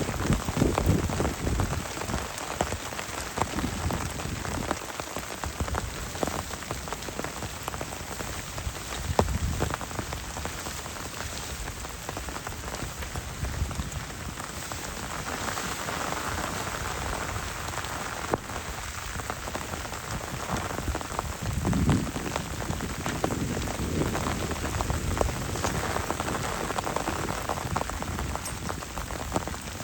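Heavy rain falling steadily, a dense hiss of many drops striking a surface.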